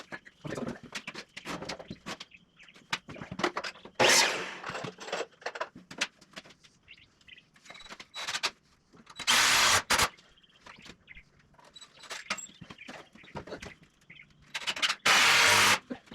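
A power drill runs in three short bursts, about 4, 9 and 15 seconds in, amid scattered knocks and clatter of lumber being handled.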